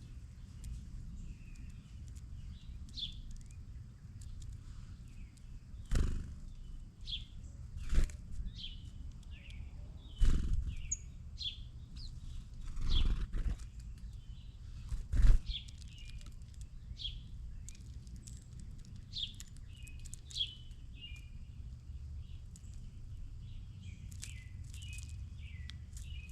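Songbirds chirping, short high calls repeated throughout, with several loud thumps and flutters in the middle, the loudest of the sounds.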